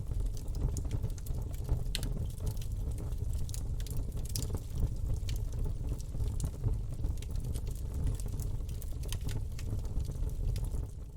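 Campfire burning: a steady low rumble of flames with frequent sharp crackles and pops from the burning wood. It fades down quickly at the very end.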